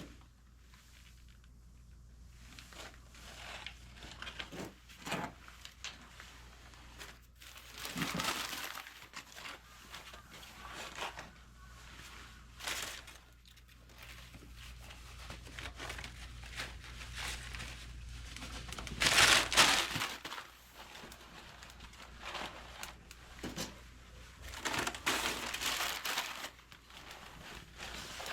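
Wood fire burning in a traditional Korean agungi firebox, crackling and popping irregularly, with louder rushes of crackle about eight seconds in and again near twenty seconds.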